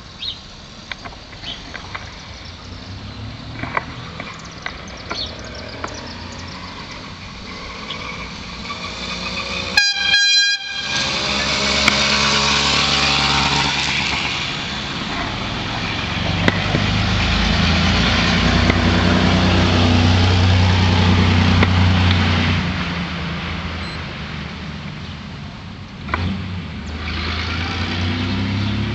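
48cc two-stroke motorized-bicycle engine (Spitfire 2K kit) running, growing louder and fading as the bike rides by, then building again near the end. A short horn blast sounds about ten seconds in.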